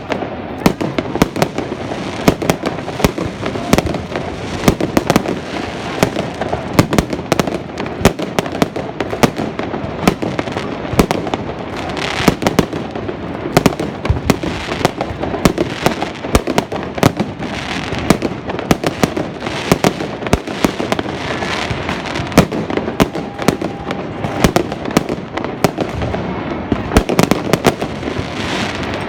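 Fireworks going off nonstop: many sharp bangs and crackling pops a second, overlapping one another without a break.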